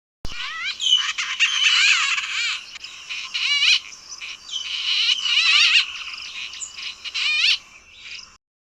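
Bird song from a field recording: a dense stream of rapid, quavering whistled notes and quick up-and-down trills, several voices overlapping. It stops abruptly near the end.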